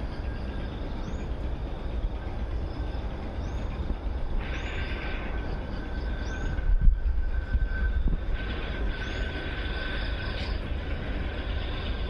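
Outdoor ambience with a steady low rumble, probably wind on the microphone. A steady high buzz comes in about four seconds in and again later, and short high chirps recur every second or two. A single thump falls about seven seconds in.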